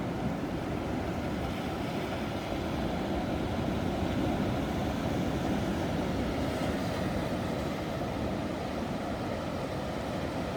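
Ocean waves breaking on a shore: a steady low rumble of surf that swells slightly in the middle.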